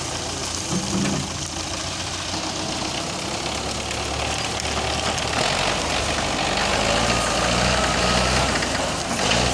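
Belarus 510 tractor's diesel engine running steadily, getting louder about five seconds in.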